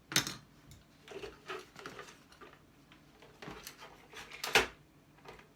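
Scattered clicks and knocks of small parts and tools being handled while taking apart an electrical appliance for scrap, with a sharper knock just after the start and another a little over four seconds in.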